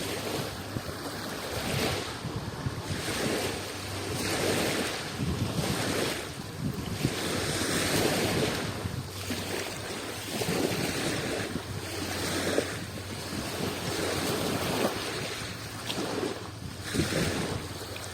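Sea waves washing and breaking, the surf swelling and easing every two seconds or so.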